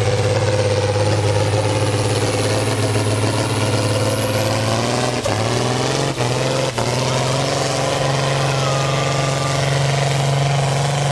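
Tractor engine running steadily. About five seconds in it stutters briefly two or three times and its pitch steps up a little, then holds.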